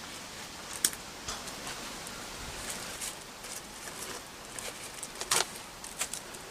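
Rummaging through burned, rain-soaked books and fire debris: scattered short knocks, clicks and rustles, the loudest about five seconds in, over a faint outdoor background.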